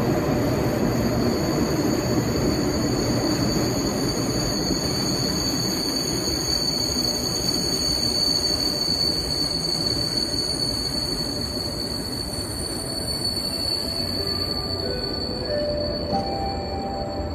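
Train running through a railway station: a steady rumble with a high-pitched squeal held throughout, slowly getting quieter. Near the end a few short, higher tones sound over it.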